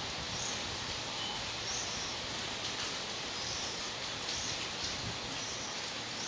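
Heavy rain falling steadily in a windy storm, a constant even hiss, with short high chirps coming every second or so.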